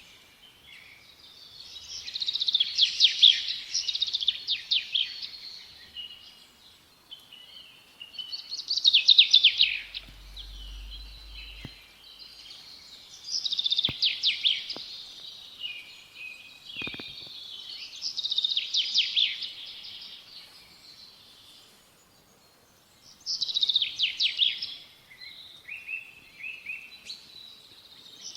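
Small songbird singing: five bursts of rapid, high chirping notes, each lasting one to two seconds, with pauses of a few seconds between them.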